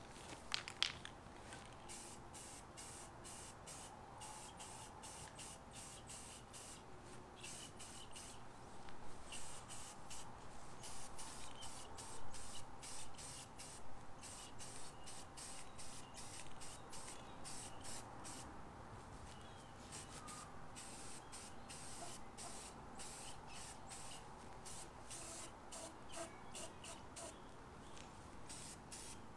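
Aerosol spray can of primer spraying in many short on-and-off sprays onto the metal dolly brackets.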